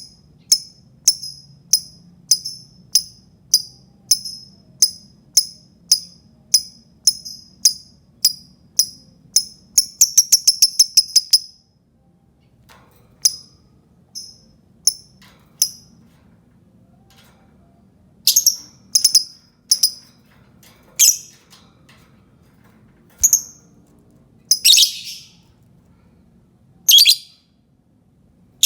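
Lovebird calling: sharp, high chirps repeated about two a second, breaking into a fast chattering run about ten seconds in, then scattered louder single calls with pauses between.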